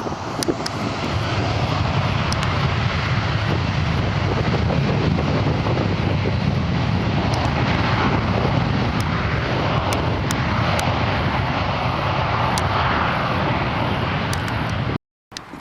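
Jet airliner engines, loud and steady, building over the first couple of seconds; the sound cuts off abruptly near the end.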